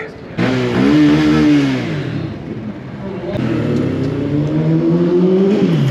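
Mini bike's small engine revving up and easing off, then pulling steadily higher in pitch under acceleration and dropping near the end, with wind rushing over the microphone.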